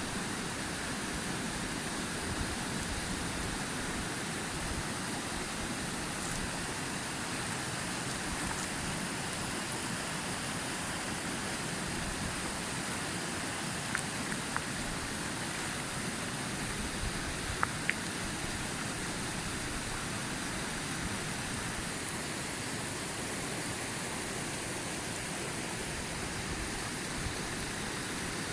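Waterfall rushing steadily, an even hiss of falling water, with a few faint sharp clicks about halfway through.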